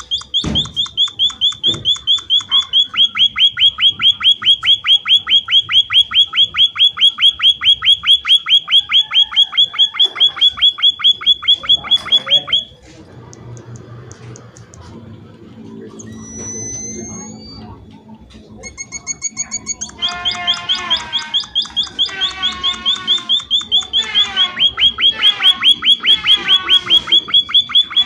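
Emprit (munia) calling: a long, rapid, evenly spaced run of sharp, high chirps, several a second. It breaks off about halfway through, then after a softer pause with a few rising whistles, the chirping resumes mixed with more varied twittering.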